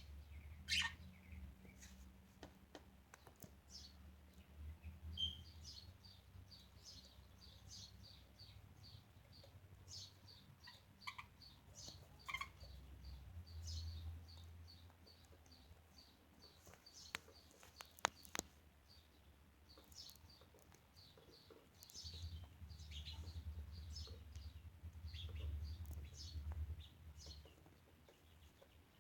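Budgerigars chirping and chattering softly, with a long run of quick, evenly repeated short chirps. A few sharp clicks and a low rumble come and go underneath.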